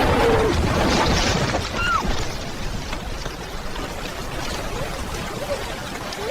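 Floodwater rushing steadily, loudest at the start, with a few faint short cries in it.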